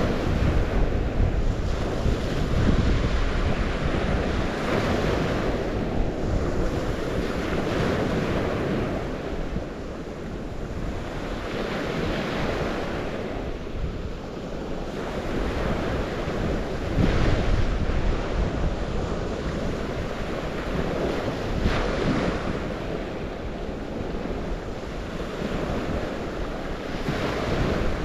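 Waves washing onto the shore, a steady rush that swells every four or five seconds, with wind rumbling on the microphone.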